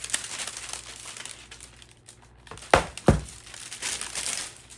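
Packaging being pulled apart and crumpled by hand, a steady crinkling and crackling, with two sharp knocks close together about halfway through.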